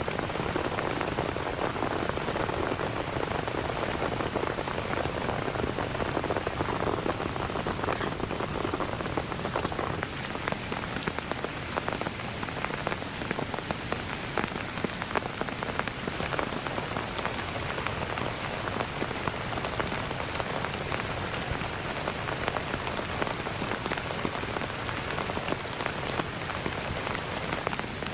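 Heavy rain falling steadily, a dense patter of countless drops striking surfaces.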